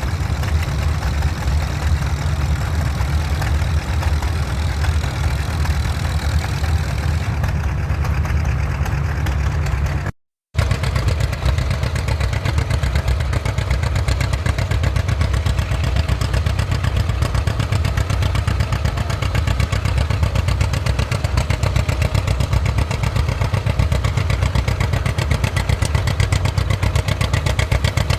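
Vintage farm tractor engine running with a fast, even firing beat and a strong low rumble. The sound drops out for a split second about ten seconds in, then carries on as before.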